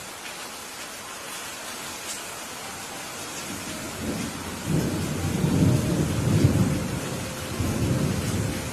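Steady rain falling, with a roll of thunder that starts about halfway through, rumbles loudest a couple of seconds later, swells once more and fades near the end.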